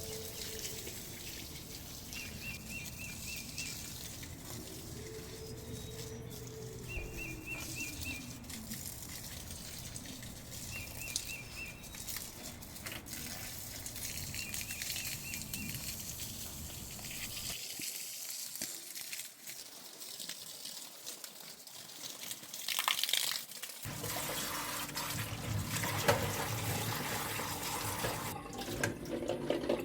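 Steady running water with a continuous hiss, getting louder and fuller in the last several seconds. A short, high, repeated trill sounds four times in the first half.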